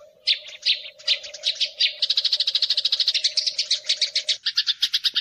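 Eurasian tree sparrows (burung gereja) fighting, giving harsh chattering chirps. The chirps start as a few spaced calls and become a fast run of about ten a second from about two seconds in. A steady low hum runs under them and stops near the end.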